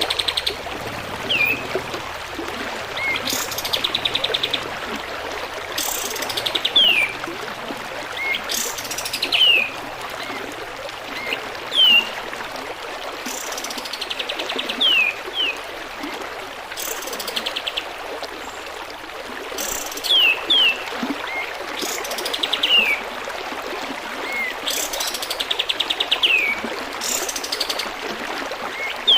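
White-shouldered triller (kapas tembak) singing over and over, each phrase a fast rattling trill and sharp falling notes, every two to three seconds. A steady trickle of running water lies underneath.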